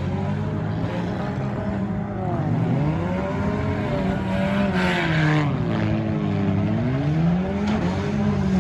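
Engines of several demolition derby compact cars revving up and down as they manoeuvre, the pitch rising and falling over and over. A short burst of hissing noise comes about five seconds in.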